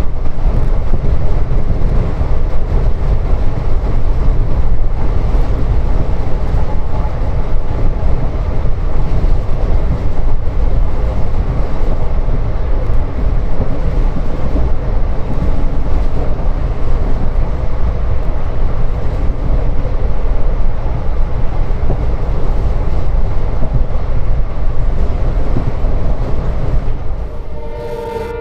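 Passenger train running at speed, heard from aboard: a loud, steady rumble and rushing noise of the moving coaches. Near the very end the noise drops and a locomotive horn starts to sound.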